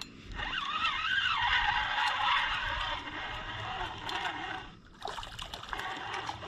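Fishing reel whirring and squealing as a hooked fish pulls against the line, loudest in the first few seconds and then weaker.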